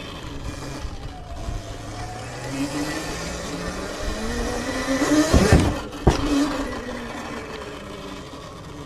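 Sur-Ron electric dirt bike's motor whining, its pitch rising steadily as the bike accelerates. About five seconds in there is a loud rush, then a sharp knock about a second later, after which the whine carries on more steadily and fades.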